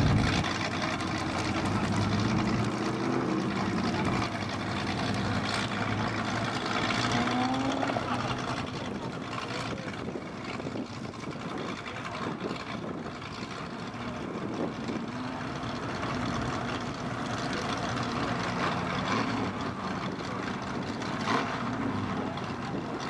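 1982 Mazda RX-7's two-rotor rotary engine revving up and down as the car accelerates and brakes through an autocross course, loudest at the start and rising in pitch again about seven seconds in.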